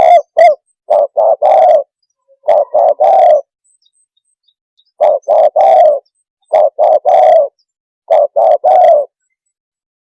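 Spotted dove (tekukur) cooing: a run of phrases of three low coos each, the last coo of each phrase drawn out, repeated about every one and a half seconds with short silent gaps.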